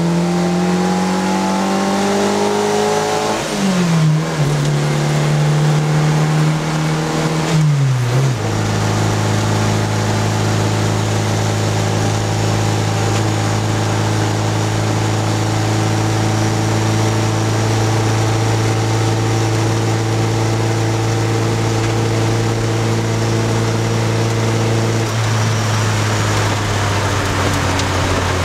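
Fiat 850's small rear-mounted four-cylinder engine heard from inside the cabin while driving. Its note climbs, drops sharply at gear changes about 3.5 and 8 seconds in, then holds a steady cruising pitch.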